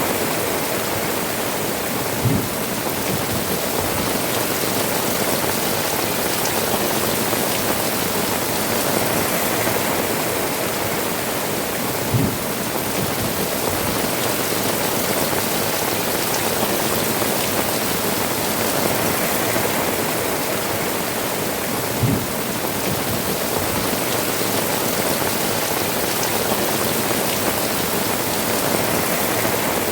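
Heavy rain falling steadily on rooftops, a dense, even hiss. A short low thud comes three times, about ten seconds apart.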